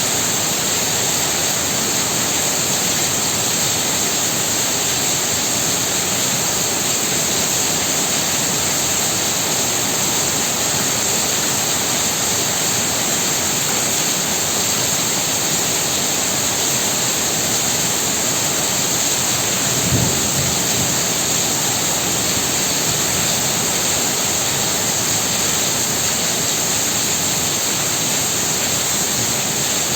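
Heavy rain pouring steadily. A brief low thump comes about two-thirds of the way through.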